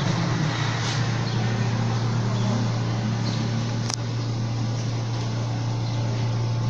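A steady low mechanical hum under a faint hiss, with a single sharp click about four seconds in.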